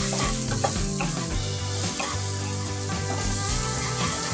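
Soya chunks and spices sizzling in ghee in a nonstick wok, stirred around with a spatula, with background music.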